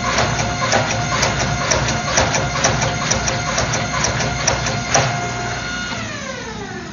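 Hydraulic forging press running, its electric pump motor humming under a steady tone with frequent sharp ticks and knocks. About six seconds in the motor is switched off and its pitch falls away as it spins down.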